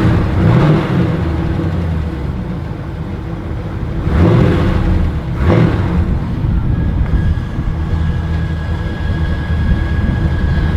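1973 Chevrolet Camaro's Chevy 350 V8 running after a cold start, blipped up in revs a few times and settling back to a steady idle between them.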